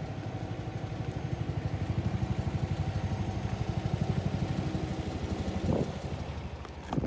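Subaru Forester's EJ20 flat-four engine running steadily at idle, with an even, rapid pulsing beat.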